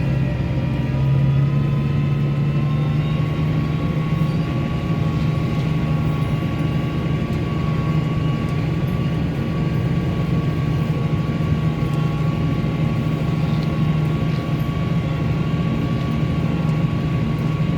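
Case IH farm tractor's diesel engine running steadily under load while pulling a disk through a field, with a steady whine over the low engine drone that rises slightly in the first couple of seconds.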